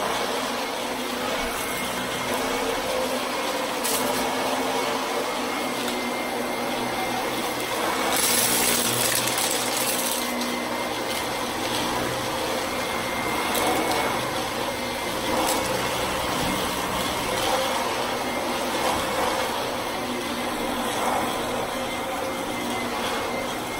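Vacuum cleaner running steadily, its motor giving a faint high whine over the airflow noise, with a louder hiss for a couple of seconds about eight seconds in.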